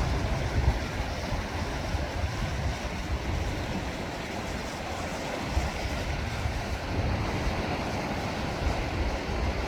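Sea waves washing on the shore, with wind buffeting the microphone in uneven low rumbles.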